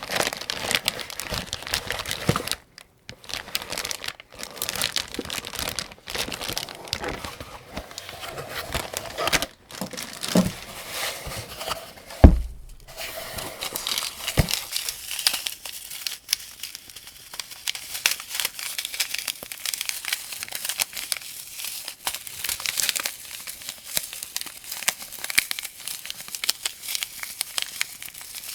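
Dense, continuous crinkling and small clicks of rifle cartridges and their packaging being handled while a 75-round AK-47 drum magazine is loaded, with one heavy thump about twelve seconds in.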